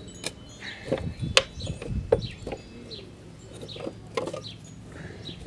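Wrench clinking against a bolt as it is worked loose, a few sharp metallic clicks, the loudest about halfway through. Small birds chirp over it again and again in short falling notes.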